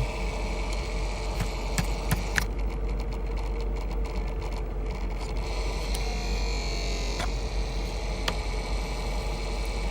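The small fan inside a 2012 Mustang GT's interior ambient temperature sensor making a steady rattling whir, the sign that the sensor is failing. A few sharp clicks come about two seconds in and again near the end, over a steady low hum.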